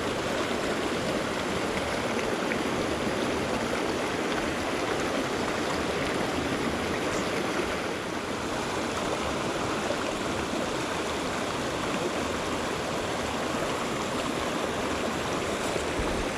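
Small mountain creek running, a steady rush of flowing water.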